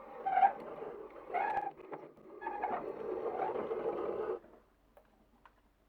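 Marbles rolling and rattling down a marble run in three surges about a second apart. They stop about four and a half seconds in, leaving only faint scattered clicks.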